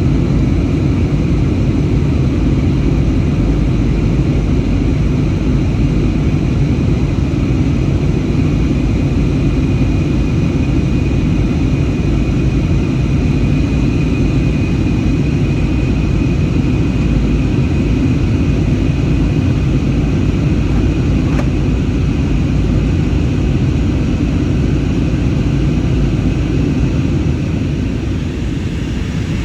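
Airbus A320neo cabin noise: the steady rumble of the CFM LEAP-1A engines and airflow, with a thin high whine that is strongest midway. The noise eases slightly near the end.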